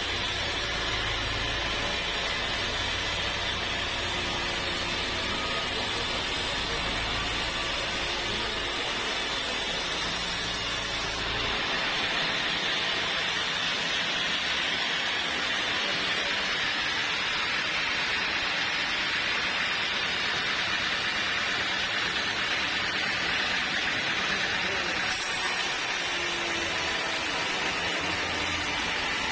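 Sawmill machinery running with a steady, noisy drone. About 11 seconds in the sound changes abruptly, losing its low rumble, and it changes again near 25 seconds.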